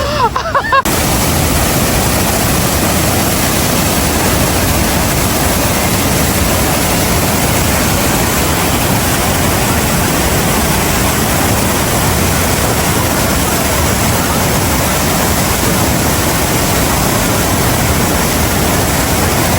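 The Rhine Falls' rushing water, a steady, loud, even roar that starts abruptly about a second in.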